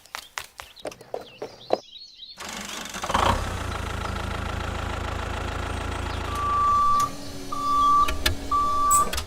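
A run of clicks, then an engine starts about two and a half seconds in and runs steadily with a low rumble. Near the end, three evenly spaced beeps sound over it.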